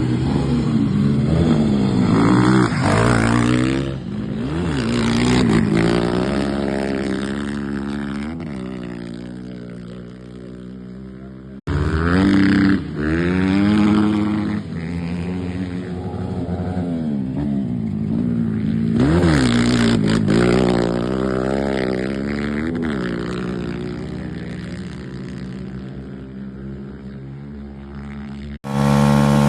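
Motocross motorcycle engines revving, the pitch sweeping up and down again and again as the bikes accelerate and back off. The sound cuts off abruptly twice, about twelve seconds in and near the end.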